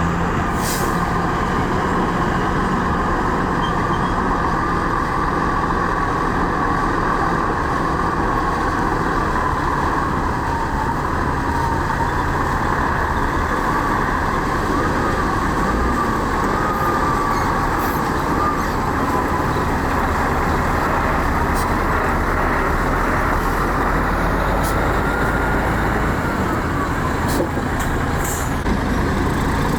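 Heavy diesel earthmoving machinery running steadily under load, with a continuous low engine rumble and a wavering mechanical whine.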